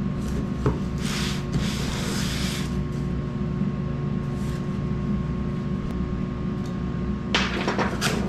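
Cardboard packaging being cut open with a knife and handled: a click, then scraping, rustling strokes about a second in and again near the end, over a steady low hum.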